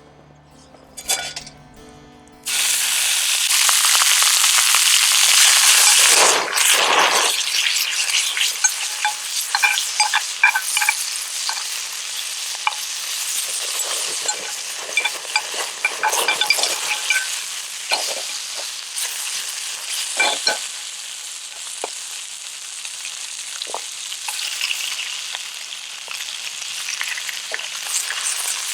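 After a few seconds of music, food starts sizzling loudly and suddenly as it goes into a hot frying pan, then keeps frying while it is stirred, with scattered clinks and scrapes of the utensil on the pan.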